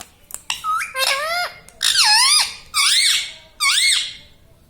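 Indian ringneck parrot vocalising: a run of about five squeaky calls, each arching up and down in pitch, ending a little before the close.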